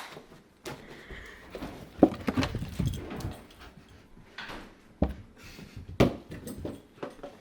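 A dog scrabbling and bumping at a couch, trying to reach a toy stuck underneath it: scattered scrapes and rustles, with sharper knocks about two, five and six seconds in.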